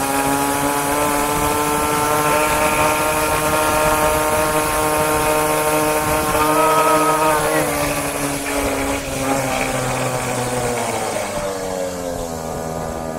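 Small 49cc two-stroke pocket bike engine running flat out at high, steady revs, its note dropping about seven and a half seconds in and sinking lower near the end as the throttle eases off.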